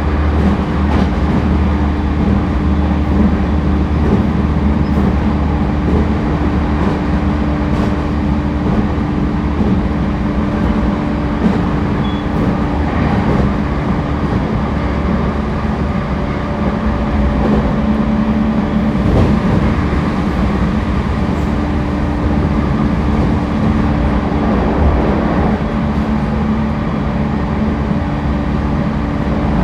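Running sound inside a JR East E231 series 1000-number (renewed) commuter train car at steady speed: a continuous rumble of wheels on rail with a steady low hum from the running gear.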